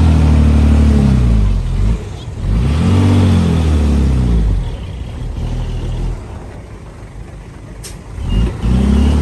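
Diesel engine of heavy earthmoving machinery revving up and falling back three times, with quieter running between the surges.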